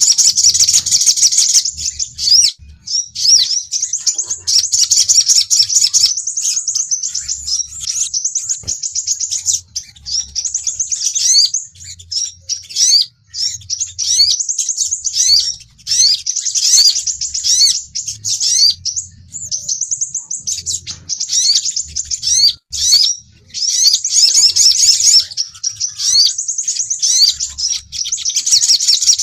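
Sunbirds, including the crimson sunbird (sepah raja), giving dense, high-pitched chirps and rapid trills in repeated bursts with short breaks: a sunbird lure call of the agitated, fighting kind.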